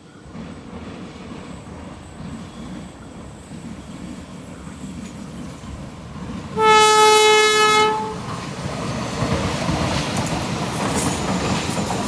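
A diesel-hauled passenger train approaching and passing, its rumble building, with one long horn blast of about a second and a half, a single steady tone, a little past halfway. After the horn the train is louder as it rolls by, wheels clattering on the rails.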